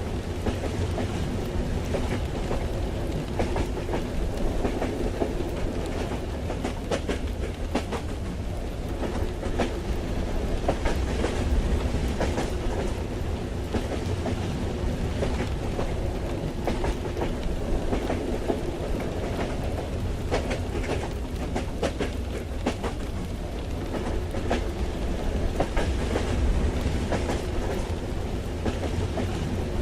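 Train ambience as heard from inside a railway carriage: a steady low rumble of the moving train, with irregular clicks and clacks from the wheels running over the rails.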